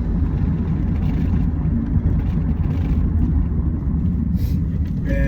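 Steady low rumble with no distinct events, without a break through the pause in talk.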